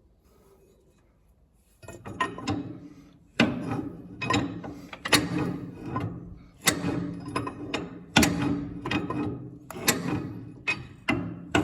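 Metal tools working on a tractor's diesel injection pump: sharp metal-on-metal knocks about every one and a half seconds, each ringing briefly, with lighter clicks between them.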